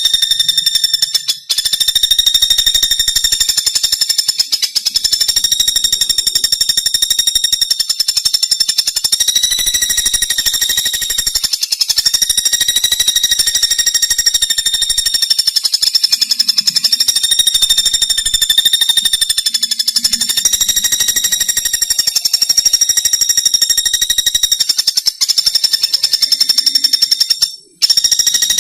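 Pelatuk bawang (common flameback woodpecker) calling in a long, very fast rattling trill on a steady high pitch, breaking off briefly about a second and a half in and again near the end.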